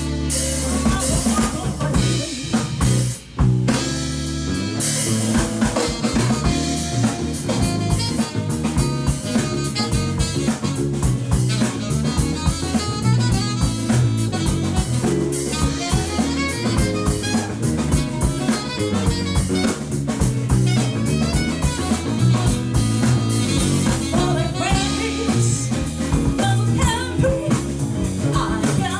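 Live rock band playing an instrumental passage of a song, the drum kit to the fore with snare and rimshot hits; a few sharp stop-start hits come in the first few seconds.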